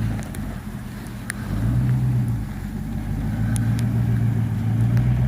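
A motor vehicle's engine running close by, a steady low hum whose pitch starts to rise near the end as it picks up speed.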